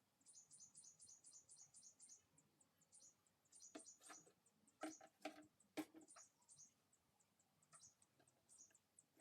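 Faint, high-pitched chirping from a small bird: a quick run of double chirps over the first two seconds, then scattered chirps. A few light knocks come in the middle.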